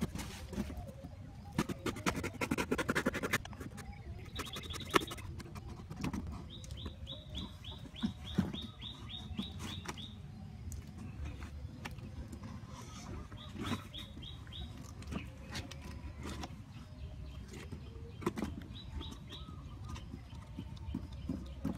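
A small bird calling in runs of quick, evenly spaced chirps, about three or four a second, three times, with rustling and a few sharp knocks in the first few seconds.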